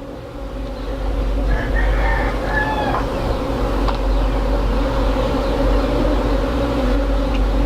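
Honeybee swarm buzzing loudly and steadily around the microphone, swelling over the first second, with wind rumble on the mic. A rooster crows briefly about a second and a half in.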